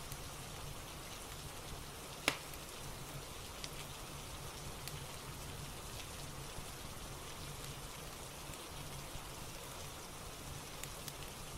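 Steady rain ambience with scattered crackles and pops from a fireplace, one sharp pop about two seconds in.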